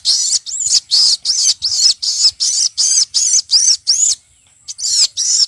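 A man imitating a common myna's call with his voice: a fast run of short, high, arching chirps, about three a second. It breaks off briefly near the end, then starts again.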